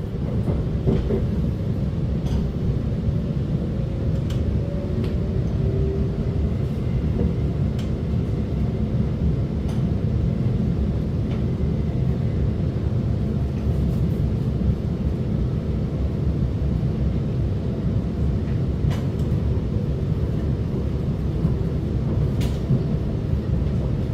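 Alstom MOVIA R151 metro train running between stations: a steady low rumble with occasional faint clicks.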